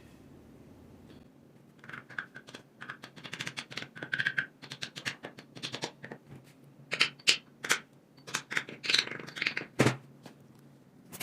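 Irregular clicking and clinking of metal tools and engine parts being handled, starting about two seconds in, with a heavier knock near the end.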